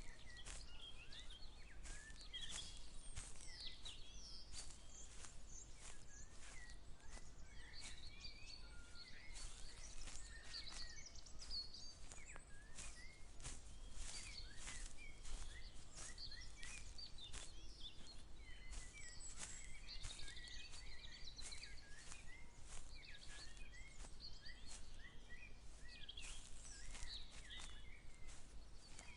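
Many small birds chirping and singing all around, with a person's regular walking footsteps about twice a second.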